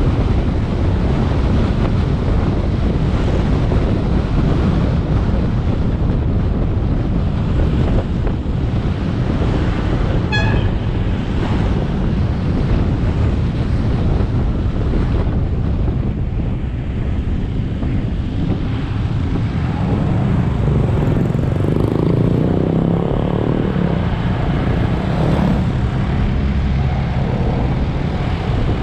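Motorbike engine running under way, mixed with wind buffeting and road and tyre noise, with a short high tonal sound about ten seconds in.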